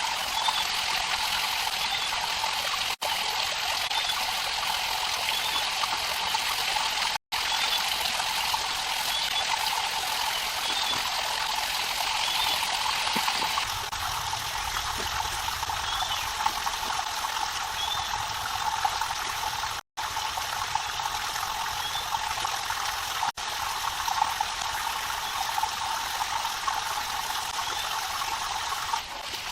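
Steady rushing water noise with faint high chirps now and then. The sound cuts out for an instant several times.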